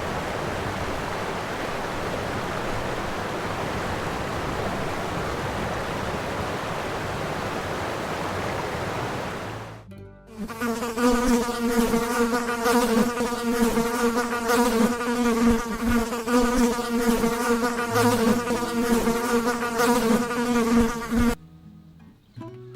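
A steady, even hiss for about ten seconds, then a flying insect buzzing: one low, steady buzz with many overtones, held for about ten seconds and stopping shortly before the end.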